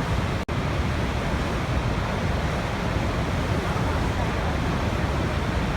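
Waterfall: water rushing in a steady, unbroken roar of noise, heaviest in the low rumble. About half a second in the sound cuts out for an instant and resumes.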